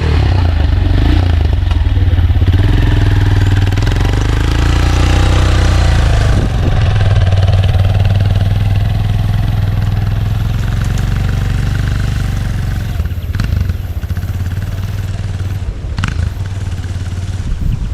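A small vehicle's engine, possibly a motorcycle's, running hard under load as it pushes through soft sand. Its pitch rises and falls over the first several seconds, then holds steadier, with a couple of short knocks near the end.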